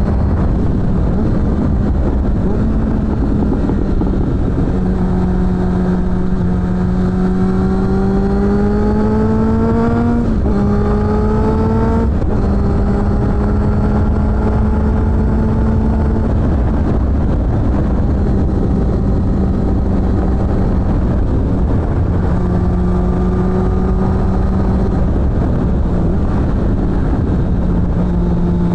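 Suzuki GSF600 Bandit's inline-four engine through a BOS aftermarket exhaust, heard from the moving bike: the engine note rises under acceleration, with gear changes about ten and twelve seconds in, then holds fairly steady with small rises and dips. A heavy rumble of wind noise lies under it.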